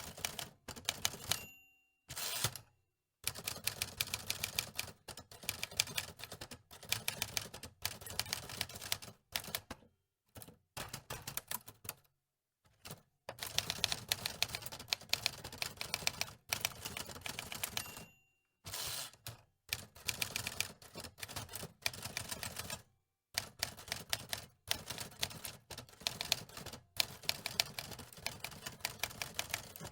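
Antique manual typewriter being typed on: keys clacking in quick runs separated by short pauses. A brief ding of the line-end bell sounds a few times.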